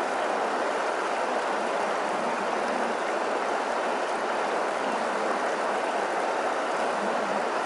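River water rushing steadily over its bed, a constant even noise without breaks.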